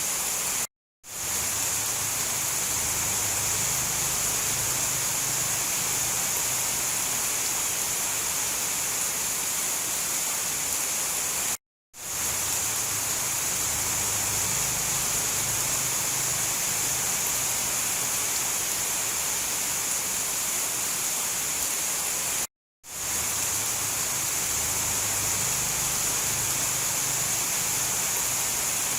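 Steady heavy rain as a dense, even hiss. It drops to silence for a moment three times, about every eleven seconds.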